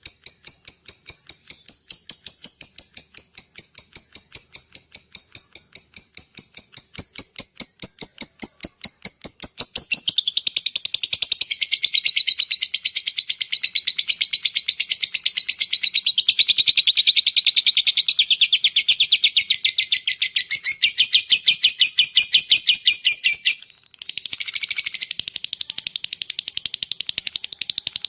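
Lovebird calling: about five or six sharp, high ticking chirps a second (the 'ngetik' call), then about ten seconds in a long, continuous, rapid chattering (the 'ngekek panjang'), which breaks off briefly near the end and starts again.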